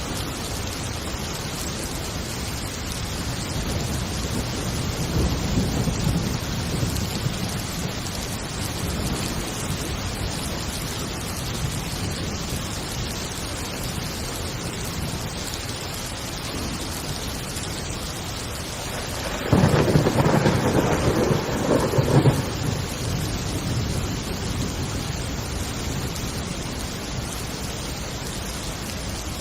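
Heavy rain falling steadily through a thunderstorm. A low thunder rumble swells about five seconds in, and about two-thirds of the way through a loud thunderclap breaks suddenly and rumbles on for about three seconds before fading back into the rain.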